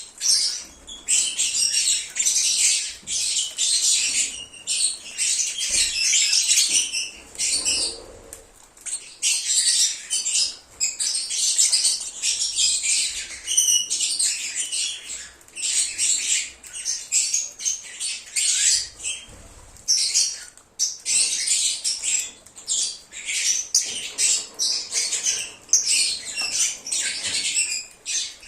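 Several lovebirds chirping and squawking in a rapid, nearly unbroken chatter of high-pitched calls, with brief lulls about a third of the way in and again about two-thirds through.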